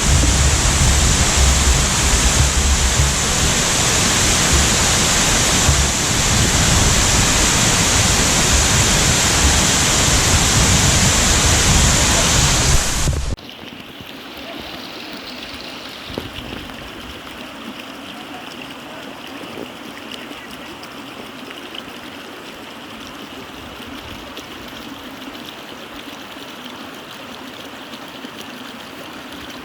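Loud, steady rush of a waterfall heard close up. About 13 seconds in it cuts off suddenly to a quieter, steady rush of running water.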